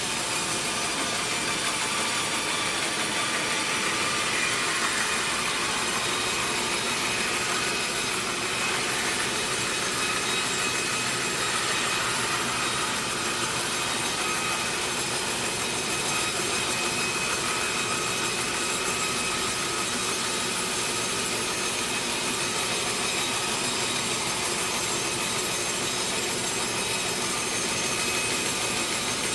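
Sawmill saw cutting through a large teak log, a steady high-pitched whine of blade in wood that runs unbroken.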